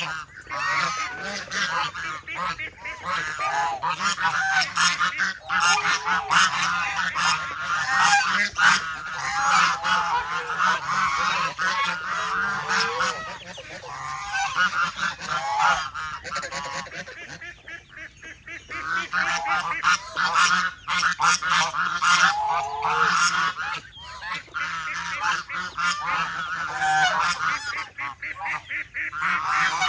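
A flock of domestic geese honking and calling, many calls overlapping almost without pause, with a brief quieter lull about halfway through.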